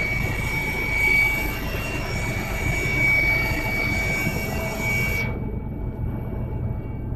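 Helicopter running, a steady loud drone with a high whine over a low rumble. About five seconds in, the higher sound cuts off abruptly and only the low rumble is left.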